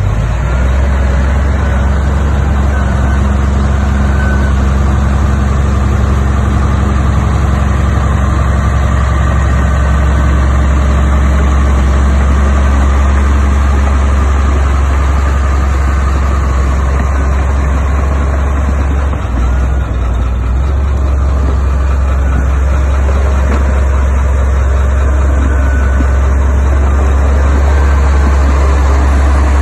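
Heavy construction machinery's diesel engine running steadily, deep and loud, with a brief drop in engine note about two-thirds of the way through.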